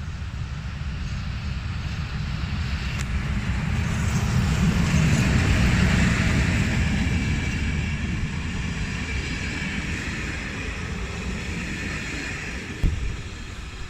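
Diesel train passing on the line, its rumble growing louder to a peak about halfway through and then slowly fading.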